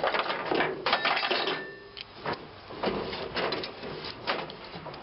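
Irregular metallic clicking and clattering as wire is cut and pulled off a small transformer.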